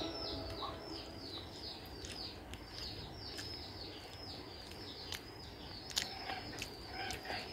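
A small bird calling outdoors: a fast, steady series of short high chirps, each dropping in pitch, about four a second, with a few faint clicks among them.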